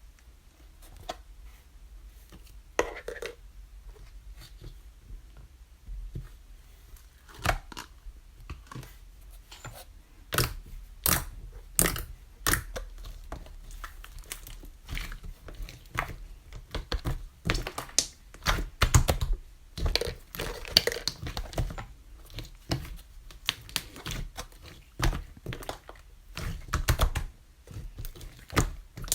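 Slime being squeezed, stretched and poked, giving sharp clicks, pops and crackles, sparse at first and coming thick and fast from about ten seconds in.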